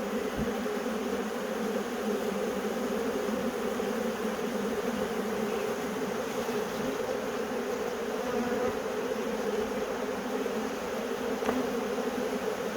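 Swarm of honey bees buzzing: a steady, dense hum of many bees flying and milling together.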